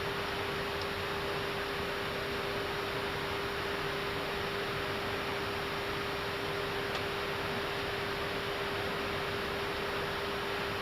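Steady cockpit noise of an Airbus A319 in descent: an even rush of airflow with a constant hum tone running through it.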